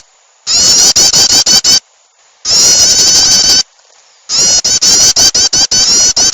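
Recorded prinia (prenjak) chattering call played as a bird lure: three loud bursts of rapid, repeated high rising notes, each a little over a second long, with short pauses between.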